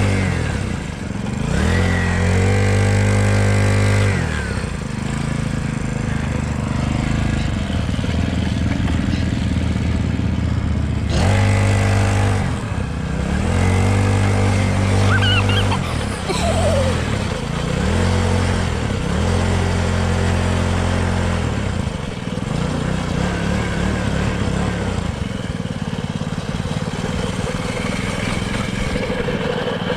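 Small dirt bike engine revving up and easing off about five times, its pitch rising and falling with each throttle opening, then running more steadily over the last several seconds.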